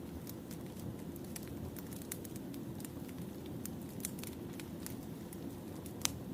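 Wood fire burning: a steady low rumble of flames with frequent irregular crackles and pops from the burning logs, one sharper pop near the end.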